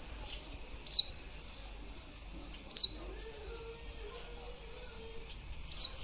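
Indian robin calling three times, about two seconds apart, each a single sharp high note that drops quickly in pitch.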